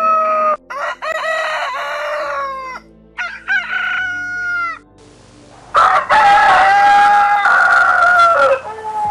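A rooster crowing several times in a row. The longest crow starts about six seconds in, and shorter calls come before it.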